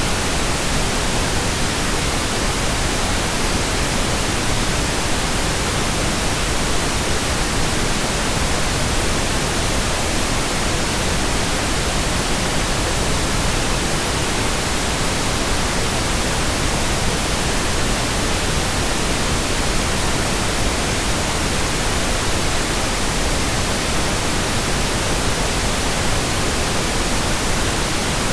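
Steady electronic white noise, an even hiss spread evenly from low to high pitches, unchanging at a constant level.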